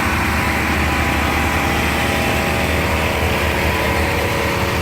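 A vehicle engine idling steadily, with a deep, even hum and no revving.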